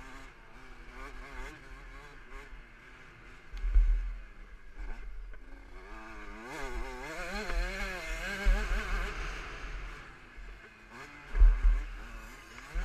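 KTM 65 SX single-cylinder two-stroke engine revving up and down repeatedly, its pitch rising and falling several times. Heavy low thumps come about four seconds in and again near the end.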